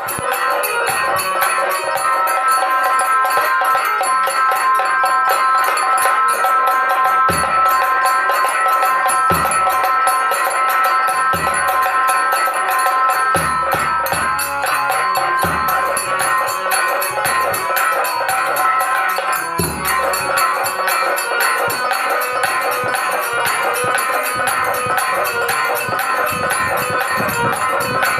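Indian folk instrumental music: a sustained melody over a fast, steady jingling percussion rhythm. Deep drum strokes land about every two seconds from about a quarter of the way in to two-thirds through.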